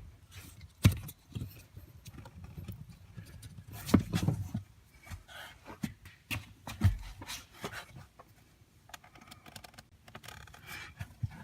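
Scattered clicks, light knocks and rustling as hands work an accelerator pedal assembly and the gray plastic retaining tab on its electrical connector, loosening the plug to free the pedal.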